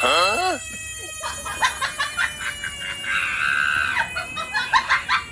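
A loud, warbling animal squawk that bends in pitch, then a rapid string of short calls over a steady high tone.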